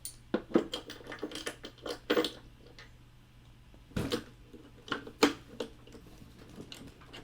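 Hard plastic model-kit parts clicking and knocking as they are handled and pushed together, an irregular run of sharp clicks with a duller knock about four seconds in.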